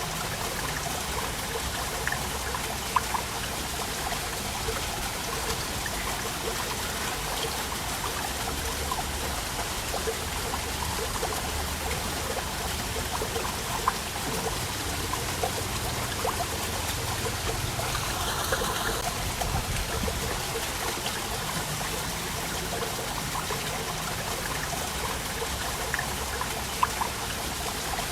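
Waterfall: water falling and splashing in a steady rush, with small sharp splashes scattered through it and a slightly stronger surge about two-thirds of the way in.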